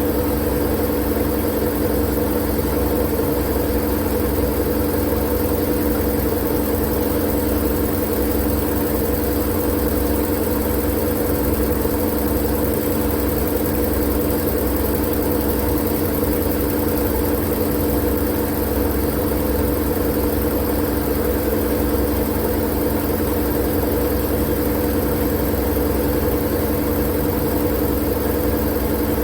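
Steady, unchanging white-noise sleep sound: a constant machine-like hum over a low rumble, with no change in level or pitch.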